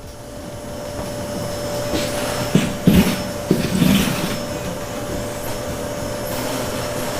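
A steady whirring machine noise with a constant hum, swelling in over the first second, with a few loud knocks about two and a half to four seconds in.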